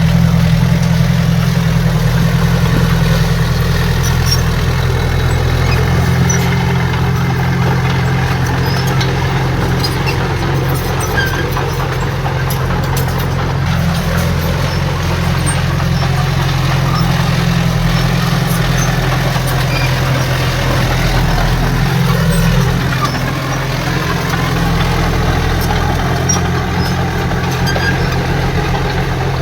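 Heavy diesel engine of earthmoving equipment running steadily, with a small dip in level about twenty-two seconds in.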